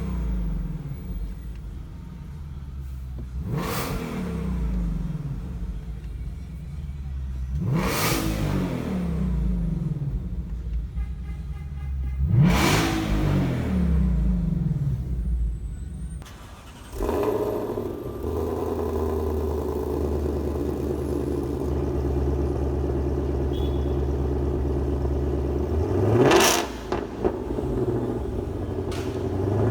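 2020 Ford Mustang Shelby GT500's supercharged 5.2-litre V8 revved in quick blips through its exhaust, each rising then falling in pitch, three times about four to five seconds apart. It then runs steadily at a held speed for several seconds before one more sharp rev near the end.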